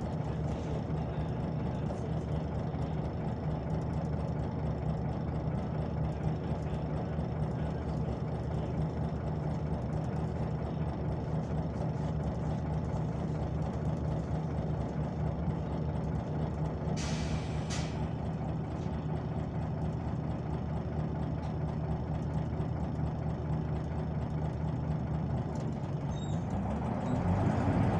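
Scania OmniLink city bus diesel engine idling steadily, with a short hiss of compressed air from the bus's pneumatics about two-thirds of the way through. Near the end the engine revs up with a rising pitch as the bus pulls away.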